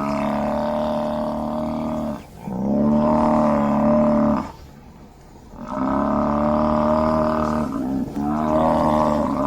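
African buffalo bellowing: a run of long, drawn-out, low pitched calls of about two seconds each, with a short lull midway.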